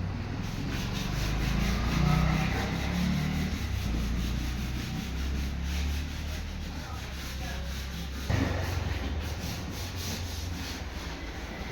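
Wood being sanded: steady abrasive rubbing on a wooden surface during the polishing prep of a box bed, with a sudden knock about eight seconds in.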